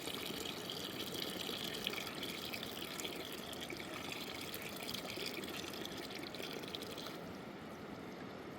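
Water trickling and splashing in a steady flow, with small irregular splashes; the brighter splashing drops away about seven seconds in, leaving a softer rush.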